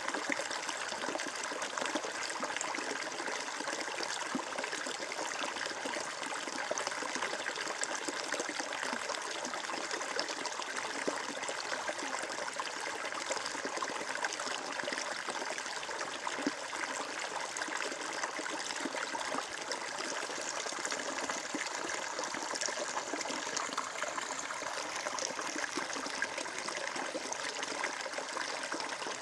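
Water flowing and trickling steadily, a continuous stream sound without change.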